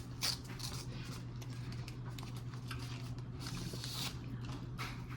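Eating at close range: chewing and mouth sounds, irregular short clicks and smacks, over a steady low hum.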